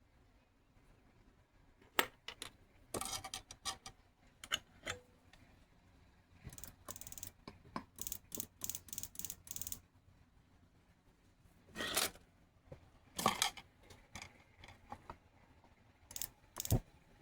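Small hard metal objects being handled at a jeweler's bench: irregular clicks, clinks and short scrapes, with a quick run of clicks about halfway through.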